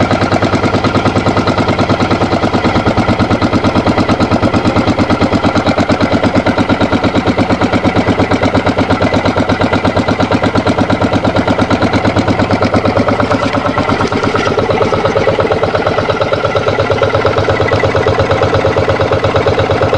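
Yanmar 9 hp single-cylinder air-cooled diesel engine running steadily, a quick, even chugging of firing pulses.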